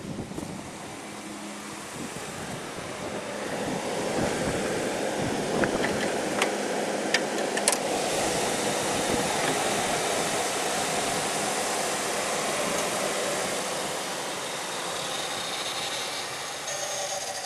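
1993 Lincoln Continental's 3.8-litre V6 running, heard as a steady rush that grows louder a few seconds in, with a few sharp clicks in the middle. Near the end a steady electronic chime-like tone starts.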